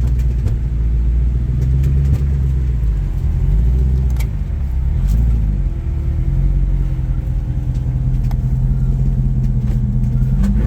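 Off-road rig's engine running at low revs as it crawls the rocks, its pitch shifting a little with the throttle, with a few sharp clicks and knocks over it.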